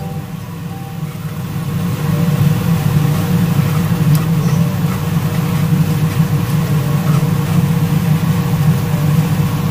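Coconut milk curds frying and browning in their rendered coconut oil, a steady sizzle under a loud, steady low hum, with a few light clicks of a wire whisk against the pan.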